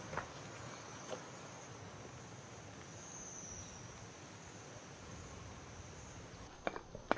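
Insects chirring steadily in a high, even buzz. A few footsteps come in near the end.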